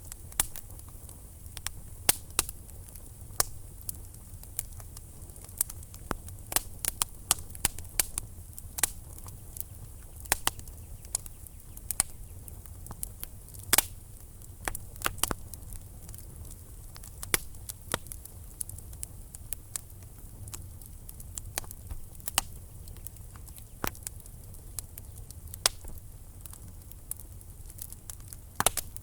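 Wood fire in a fireplace crackling: logs pop and snap in quick, irregular clicks over a low, steady rumble of the burning fire.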